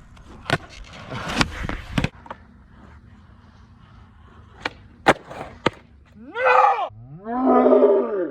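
Skateboard on a concrete park: wheels rolling and the board clacking sharply on landings and pops several times. Near the end come two long, loud rising-and-falling shouts.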